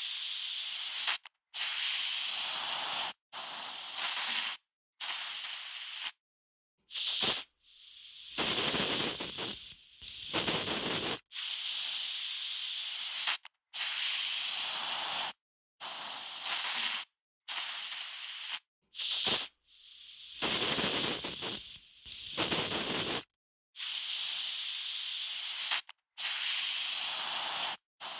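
Aerosol spray can spraying in a long series of hissing bursts, each about one to two seconds long, with short breaks between them. A few bursts around the middle sound fuller and deeper than the rest.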